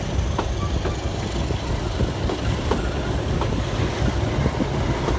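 Taieri Gorge Railway train running along the track: a steady low rumble with the wheels clicking over rail joints at a regular beat.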